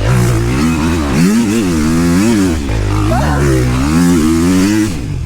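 Dirt bike engine revving up and down over and over as the throttle is worked on the trail, its pitch rising and falling about twice a second.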